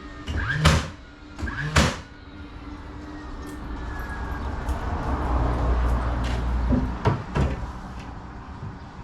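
Garage door hardware being worked: two sharp knocks in the first two seconds, then a rumbling rattle that swells and fades over several seconds, then two more knocks close together.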